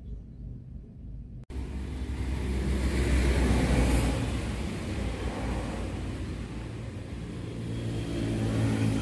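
A motor vehicle passing close with its engine running. The sound starts abruptly about a second and a half in, is loudest about three seconds in, and stays loud.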